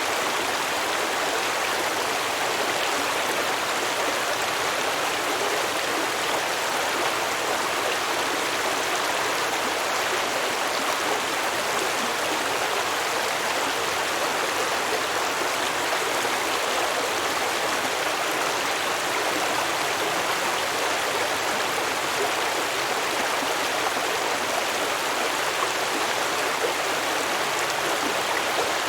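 Shallow stream babbling over rocks: a steady, unbroken rush of flowing water.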